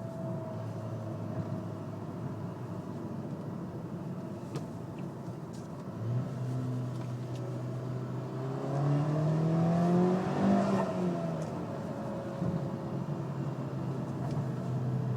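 Volkswagen Golf R's turbocharged four-cylinder engine and exhaust under way, a steady drone at first. About six seconds in it gets louder and climbs in pitch as the car accelerates, peaks around ten seconds, then drops back to a steady cruise.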